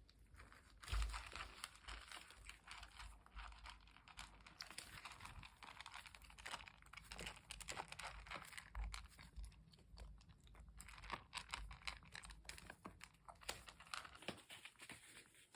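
Faint crinkling and rustling made up of many small irregular clicks and crackles, with an occasional soft low thump.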